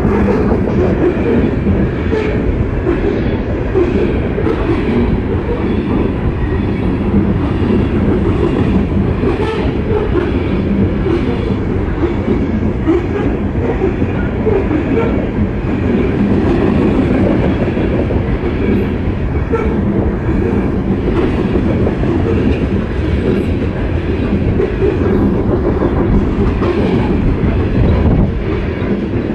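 Coal cars of a BNSF freight train rolling steadily past at close range: a continuous heavy rumble with the repeated clack of wheels over the rails.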